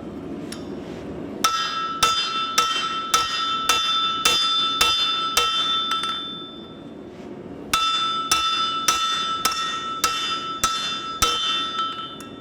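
Forging blows on hot steel over an anvil, struck with axes used as hammers, at about two blows a second. The anvil rings clearly after each blow. The blows come in two runs with a pause of about a second and a half in the middle.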